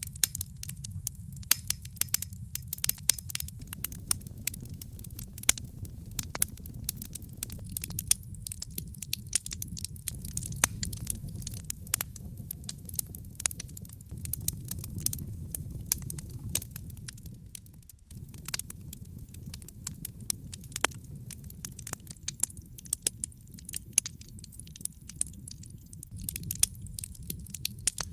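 Wood fire burning in a fireplace: frequent irregular crackles and pops over a steady low rush of burning, which dips briefly about two-thirds of the way through.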